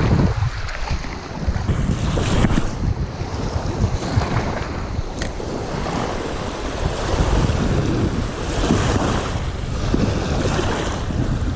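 Strong, gusty sea wind buffeting the microphone, with waves washing.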